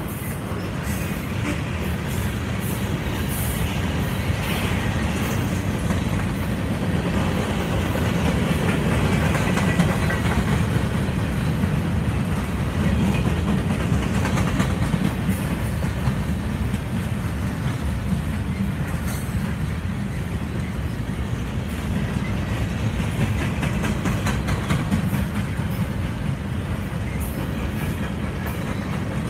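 Mixed freight train's cars rolling past close by: steel wheels on rail making a steady low rumble, with scattered clicks over the rail joints.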